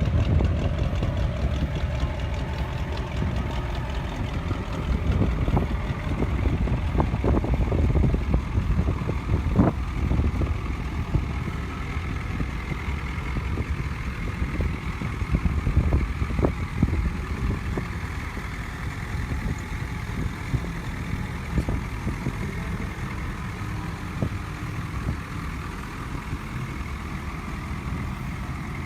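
A truck engine running with a steady low rumble, with a few sharp knocks about a third of the way in and again around the middle.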